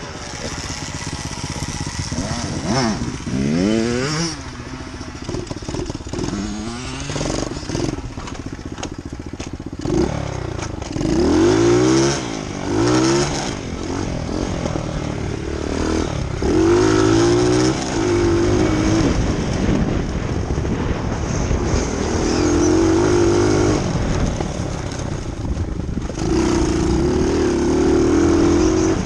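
Dirt bike engine revving up and down in repeated surges, then held at a steadier, higher speed near the end.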